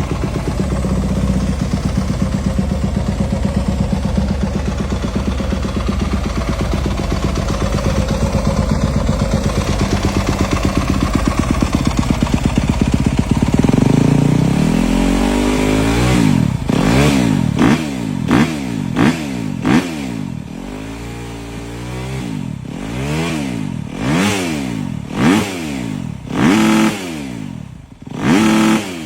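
Yamaha YZ250FX single-cylinder four-stroke dirt bike engine idling steadily, then, about halfway through, being revved in a series of about a dozen quick throttle blips, each rising and falling in pitch.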